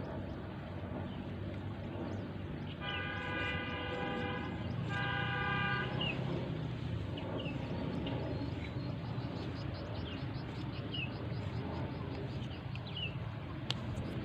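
A vehicle horn sounds twice, a long steady honk then a slightly shorter one, over a steady low rumble. Short high chirps from a small bird follow at intervals.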